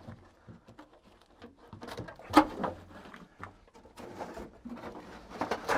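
Irregular knocks and rustling of parts and debris being handled, with one sharp loud knock about two and a half seconds in and a few more near the end.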